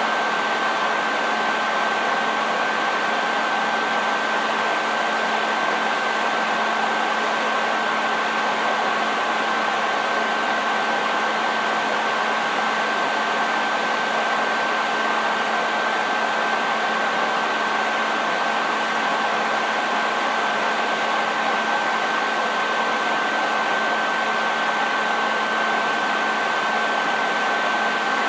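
Electric hair dryer running continuously on one setting: a steady airy rush with a constant high whine from the fan motor and a low hum beneath.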